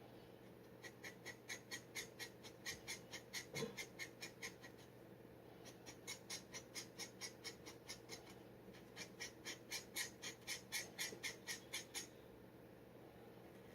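Steel G-nib dip pen scratching across paper in quick, evenly repeated short strokes, about four or five a second, as in hatching. It comes in two runs with a brief pause about five seconds in.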